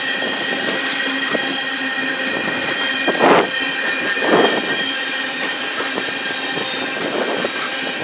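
Coal cars of a long freight train rolling past: steady wheel-on-rail rumble with a thin, steady high squeal from the wheels. Two louder clatters come about three and four and a half seconds in.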